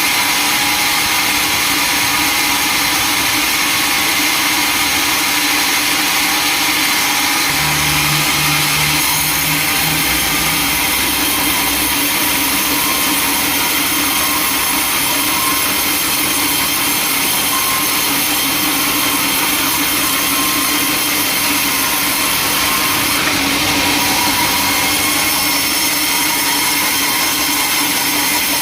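Sawmill machinery running steadily: a constant loud mechanical rush with a fixed high whine over it, and a lower hum that comes in briefly about eight seconds in.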